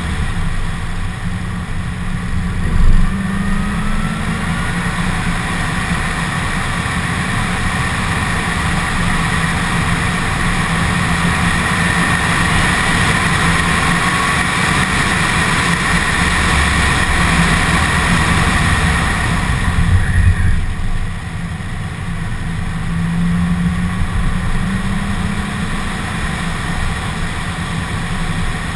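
2015 Corvette Z06's supercharged 6.2-litre V8 running hard, with a high supercharger whine building over several seconds and then dropping away abruptly about twenty seconds in, followed by a short loud pop. The engine note climbs again near the end.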